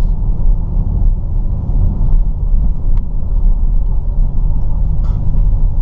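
Low, steady rumble inside the cabin of a 2010 Chevrolet Camaro V6 automatic with windows up, cruising at an even speed: engine and stock exhaust (factory resonators and catalytic converters) blended with road noise. It is kind of quiet at cruising speed, with no revving.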